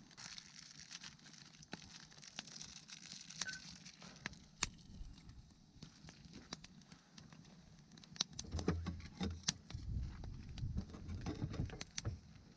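Campfire crackling with scattered sharp pops; from about eight seconds in, louder knocking and clattering over it.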